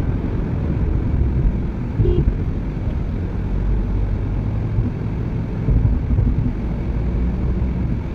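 Maruti Baleno being driven on a road trial after a thermostat assembly replacement: steady low engine and road rumble, with no sign of trouble.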